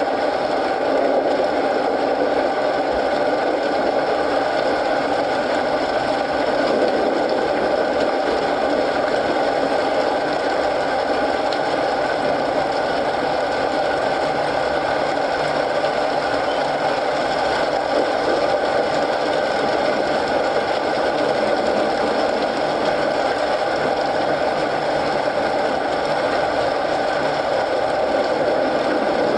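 Steady rain mixed with a crackling wood fire, an even, unbroken wash of sound.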